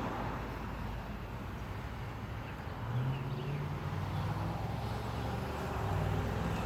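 Low, steady engine drone that sets in about three seconds in, over a faint outdoor background.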